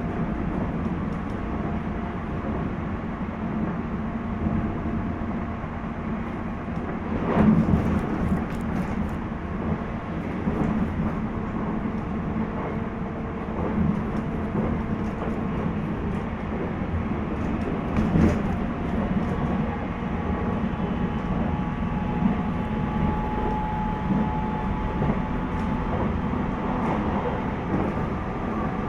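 JR East 719 series electric multiple unit heard from inside the car while running, a steady rumble of wheels on rail with faint motor tones. Clusters of clacks come about 7 seconds in and again about 18 seconds in.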